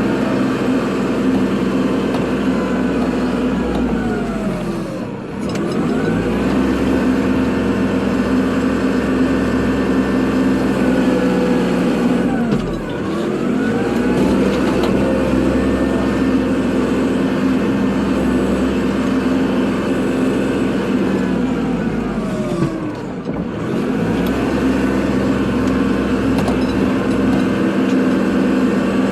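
Kubota tractor's diesel engine running at working speed under load while plowing snow. Three times the engine speed sags briefly and then picks back up.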